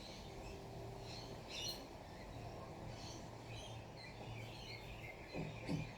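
Small wild birds chirping on and off in short high calls, over a steady low hum.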